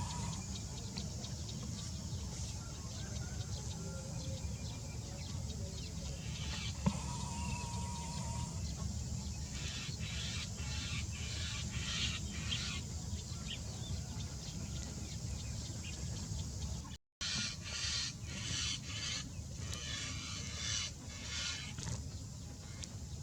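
Bird calls in rapid repeated spells, over a steady low rumble.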